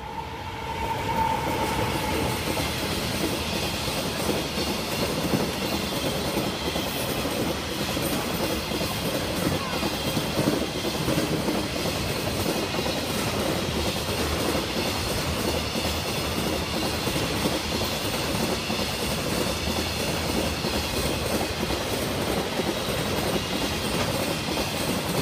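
JR Freight EF200 electric locomotive and its long train of container wagons passing close by. The sound swells over the first second or so, with a brief high tone about a second in. It then holds as a steady rolling rumble and rail noise from the wagon wheels as the containers go by.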